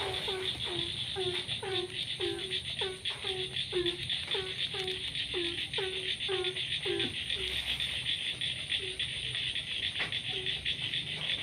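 Frog calling over and over, short low croaks about two a second that stop about seven seconds in, with a few fainter calls afterwards. A steady, high-pitched chorus of insects runs underneath.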